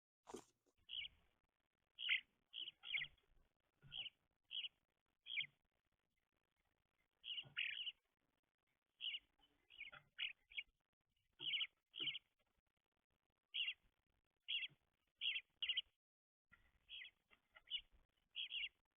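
Small songbirds at a seed feeder giving many short, sharp chirps, irregularly spaced and sometimes in quick runs of two or three. The calls sound thin and clipped at the top, as if picked up by the feeder camera's built-in microphone.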